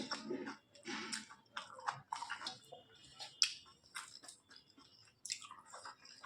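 Close-miked chewing of rice and chicken curry, with irregular wet mouth sounds and sharp clicks now and then.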